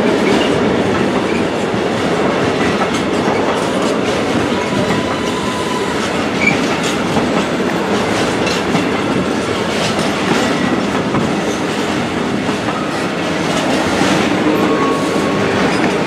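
Intermodal freight train of pocket wagons loaded with curtain-sided semitrailers rolling past at steady speed: continuous rumble and clickety-clack of the wheels over the rails, with a few faint, short wheel squeals.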